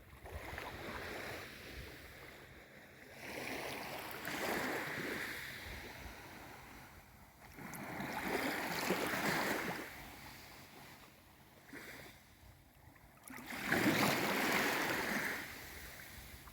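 Small waves of a calm sea washing in and drawing back, four surges of water about every four seconds, the last one the loudest.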